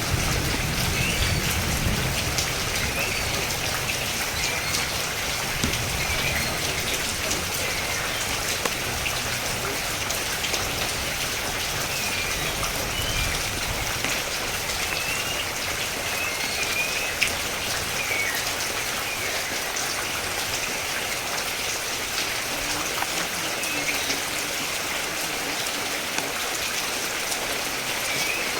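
Steady rain falling and pattering on surfaces, with a low rumble underneath during the first half and faint short chirps now and then.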